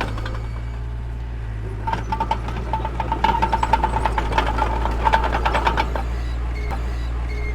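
Heavy machine's engine running steadily, with a stretch of rapid metallic rattling from about two seconds in until about six seconds.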